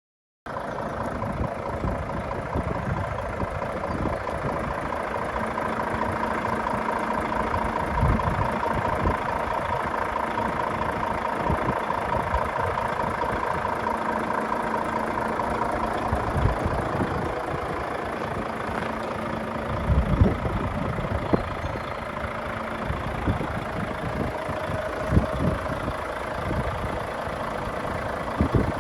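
Volvo FH500's 13-litre straight-six diesel idling steadily, with a few low thumps along the way, the strongest about two-thirds of the way through.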